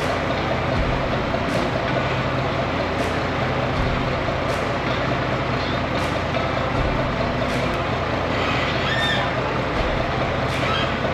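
Hay squeeze's engine running steadily under load while it lowers a flatbed onto a pickup truck frame.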